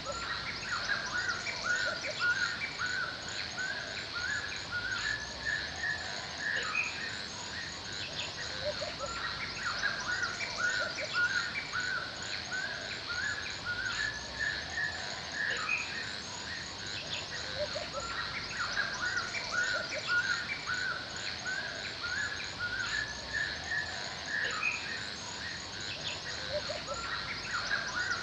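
Forest ambience: several birds chirping and calling on and off, over a high, evenly repeated chirp and a steady high insect drone.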